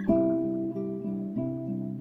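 Background music: acoustic guitar picking chords in a steady rhythm.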